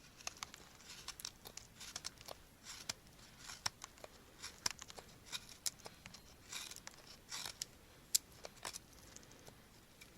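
Scattered small crackles, tearing and rustling of hands handling dry tinder and fire-lighting gear, as a campfire is being set up.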